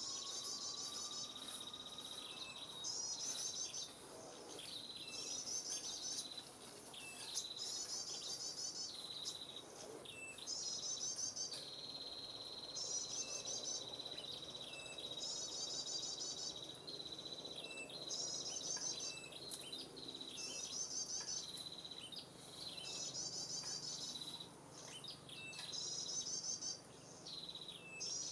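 Insects calling in a high pulsing trill that repeats about every one and a half to two seconds over a steady high-pitched whine, with short bird chirps in between.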